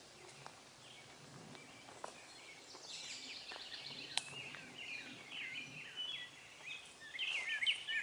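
Small songbirds chirping in runs of short, quick falling chirps, sparse at first and busier from about three seconds in, over a faint background hiss.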